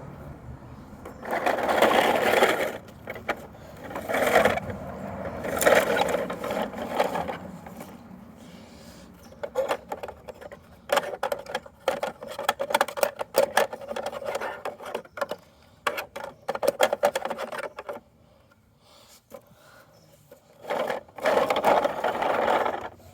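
Plastic toy garbage truck being handled: bursts of rattling and scraping plastic parts, with a long run of quick clicks and clatters in the middle.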